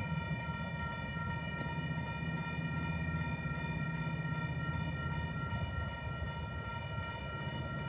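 Diesel locomotive running steadily with a low engine rumble under a steady high whine, and faint high ticks repeating about three times a second.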